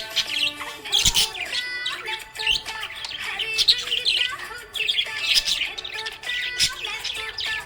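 Budgerigars chirping and warbling: a dense, unbroken chatter of quick high chirps and short whistled glides.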